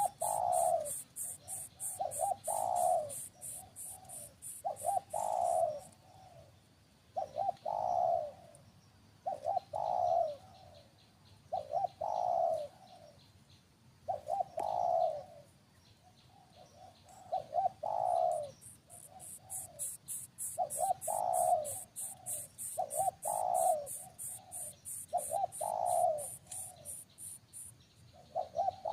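A bird cooing: a short phrase of a few low, hollow notes, repeated about every two seconds. A high, rapid pulsing trill runs along with it for the first six seconds and again for most of the last ten.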